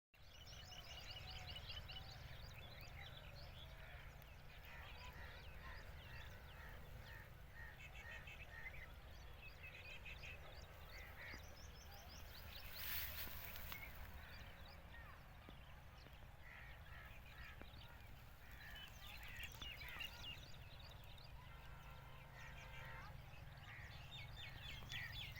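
Birds calling in many short, repeated chirps and calls over a steady low rumble, with a brief hiss about thirteen seconds in.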